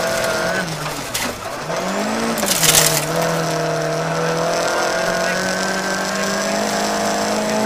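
Rally car engine heard from inside the cabin, pulling hard in fourth gear on gravel, with the engine pitch bobbing up and down twice early on, then holding high and climbing slowly. A short loud burst of noise comes about a third of the way in, and the pitch drops right at the end as the gearbox is shifted up to fifth.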